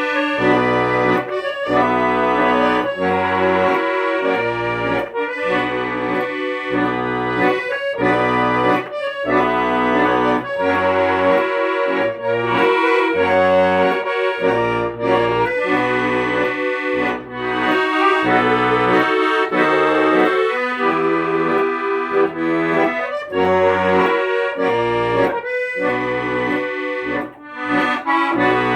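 Accordion music: a melody over bass notes that change in a steady rhythm.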